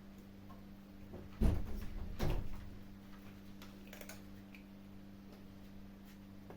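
Two heavy bumps close together, about a second and a half in and again near two seconds, over a steady low hum, with faint scattered clicks of kittens chewing their food.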